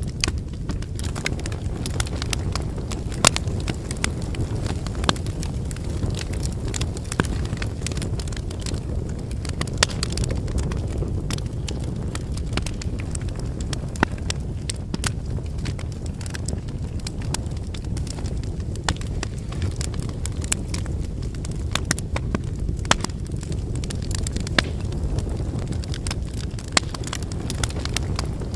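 Wood fire burning, with a steady low rumble of flames and frequent sharp, irregular crackles and pops from the burning firewood.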